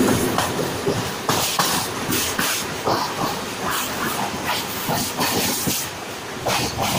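Mumbai suburban electric local train running at speed, heard from its open doorway: a steady rush of wind and track noise with an irregular clatter of wheels over rail joints. It is louder with a low rumble at the very start, as another train passes close alongside.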